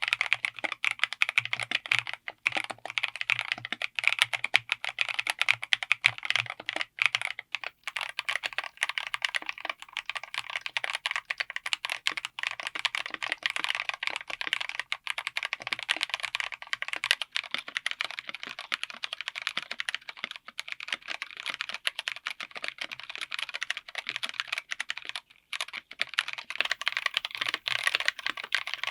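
Typing on a mechanical keyboard fitted with tactile switches: a fast, continuous run of keystrokes, with short pauses about eight and twenty-five seconds in.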